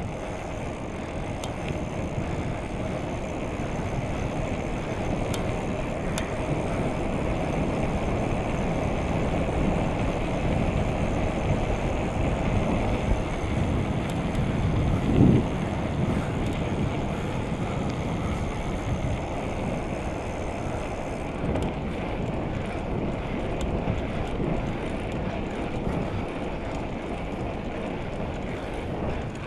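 Wind rushing over the microphone while riding a bicycle, a steady noisy rumble, with one short louder bump about halfway through.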